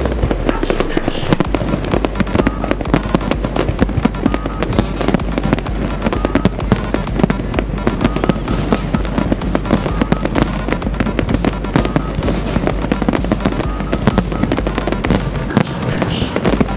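Fireworks going off in a dense, continuous barrage of crackles and bangs, with music playing underneath.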